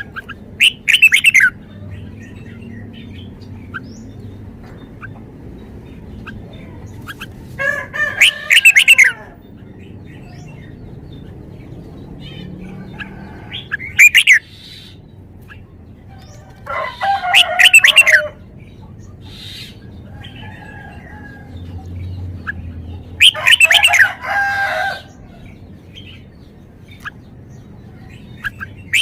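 Red-whiskered bulbul singing: five short bursts of quick warbling phrases a few seconds apart, with faint chirps in between.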